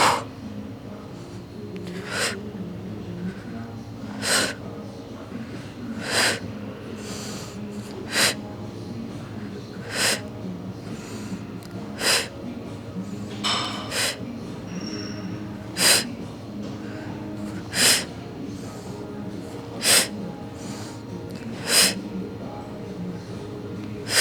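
Short, sharp exhales, one about every two seconds, a breath pushed out with each crunch repetition, over quiet background music.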